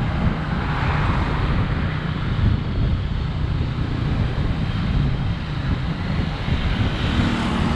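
Ride noise from a moving motorcycle: a steady rush of wind on the microphone mixed with the motorcycle's engine running.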